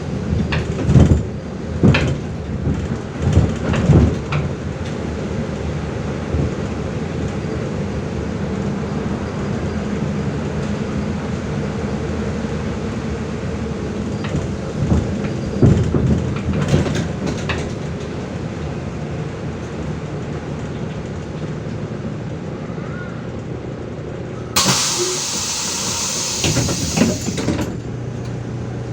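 MAZ-105 city bus heard from inside the cabin, its engine running steadily while the body clatters and rattles over bumps near the start and again midway. About 25 seconds in comes a loud hiss of compressed air from the bus's pneumatic system, lasting about three seconds, then a steady low engine hum.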